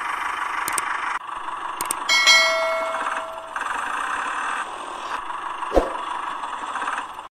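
A steady whirring hiss, broken by abrupt jumps in level, with a metallic clang about two seconds in that rings on for about a second, and a short knock near the end.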